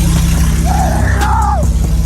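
Swapped-in Nissan VR30DDTT twin-turbo V6 idling with no exhaust fitted: a steady low rumble. Music plays over it, with a wailing voice that rises and falls about halfway through.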